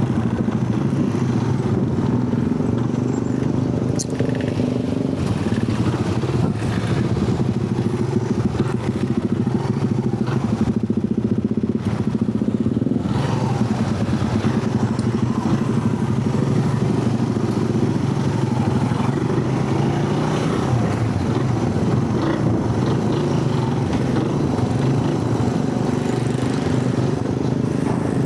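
An engine running steadily: a continuous low drone that holds an even pitch, with no revving or stops.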